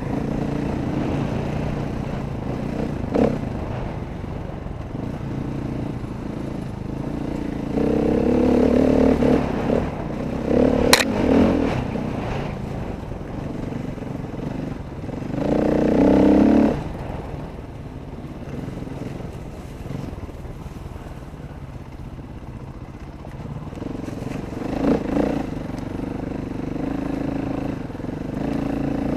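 Dirt bike engine running as it is ridden, its pitch rising and falling with the throttle, with several louder surges of revving. A single sharp click comes near the middle.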